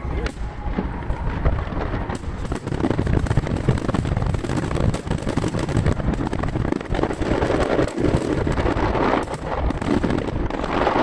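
Aerial firework shells bursting in quick, crowded succession, heard from a distance with their booms echoing back. The recording runs at three times normal speed, which packs the reports tightly together.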